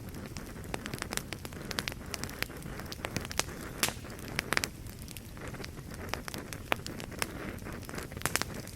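Fireplace fire crackling: irregular sharp pops and snaps, several a second at uneven spacing, over a steady low rumble of burning.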